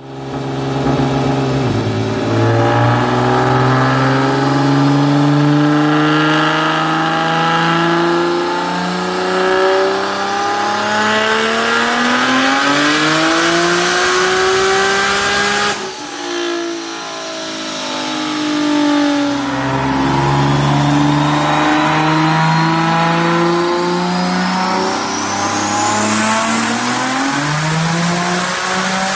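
Twin-turbo VR38DETT V6 of a 1700 hp Nissan GT-R, breathing through a 4-inch Armytrix full exhaust, making full-throttle pulls on a chassis dyno. The engine note rises steadily in pitch through a long pull that cuts off suddenly about halfway, then a second pull climbs again and falls away as the throttle closes near the end.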